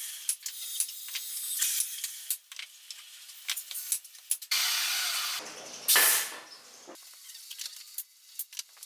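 Small woodworking sounds on wood: a string of light taps and clicks with short bursts of hissing or scraping noise, the loudest a brief burst about six seconds in.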